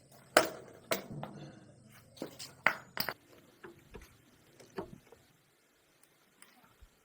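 Irregular sharp clinks and knocks of hand tools and metal parts being handled, about a dozen over five seconds over a faint low hum, then near quiet with a couple of faint ticks.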